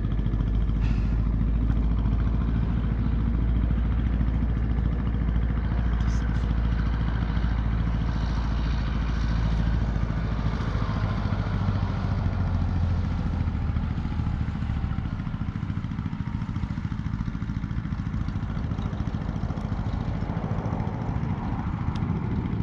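BMW R1200 GS boxer-twin engine running with the bike stuck in deep mud. The low engine sound is steady, with a few brief rises in pitch, and drops off about two-thirds of the way through.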